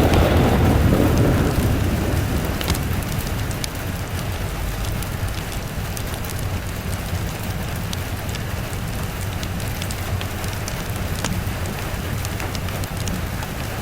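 Steady rain with a roll of thunder that is loudest at the start and dies away over the first few seconds. Occasional sharp ticks sound through the rain.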